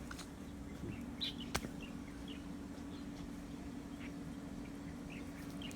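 Scattered short bird chirps over a steady low hum, with one sharp click about a second and a half in.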